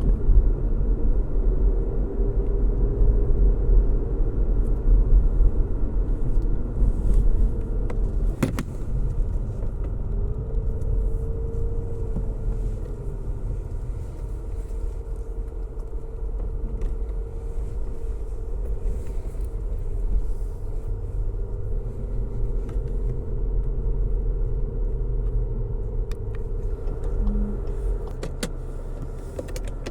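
Car driving along a road: a steady low rumble of road noise with the engine's hum wavering slightly above it. A single sharp click comes about eight seconds in, and a few faint ticks come near the end.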